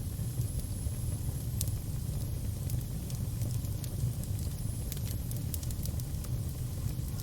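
Fire burning with a steady low rumble and scattered sharp crackles and pops, plus a faint thin high whistle now and then.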